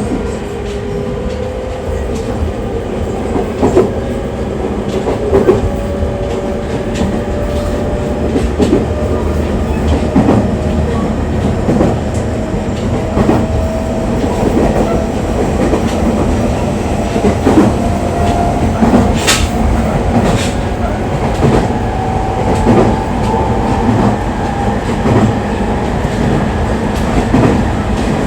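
Electric train heard from inside the car while running: a steady rumble with wheels clicking over rail joints, and a faint motor whine slowly rising in pitch as the train picks up speed.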